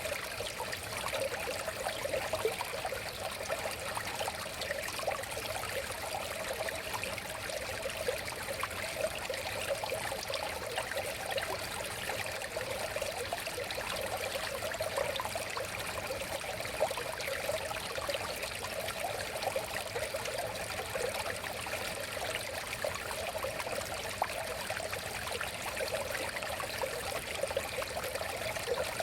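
River water flowing over stones, a steady babbling and trickling with no pause or change.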